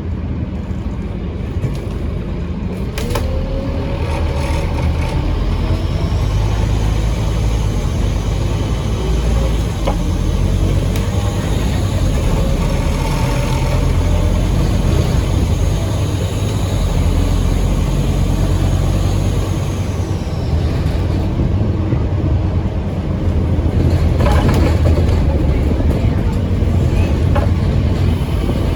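Scania N230UD OmniCity bus's five-cylinder diesel engine running under way, heard from on board. A high turbo whistle rides over it for about fifteen seconds in the middle, then fades away.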